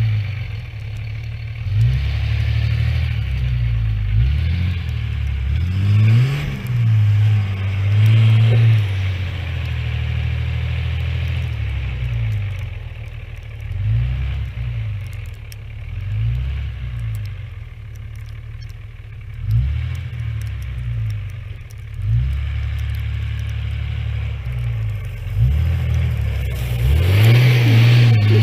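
Small off-road motorbike engine running and revving up and down again and again, its pitch rising and falling every second or two, loudest near the end.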